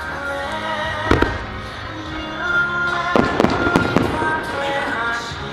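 Aerial fireworks shells bursting: a couple of booms about a second in, then a quick cluster of bursts between about three and four seconds, over a song playing throughout.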